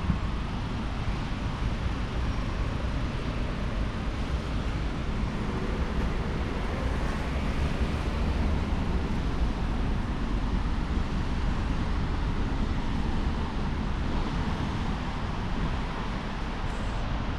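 Steady vehicle and road noise outdoors: a constant low rumble with no distinct engine note and no sudden events.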